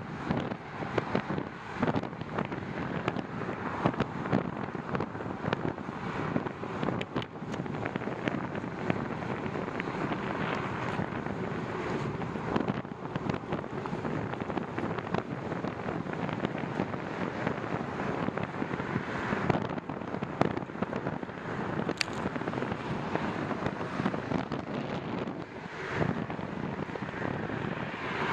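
Wind buffeting the microphone during a bicycle ride, a steady rough rumble with many scattered crackles and clicks.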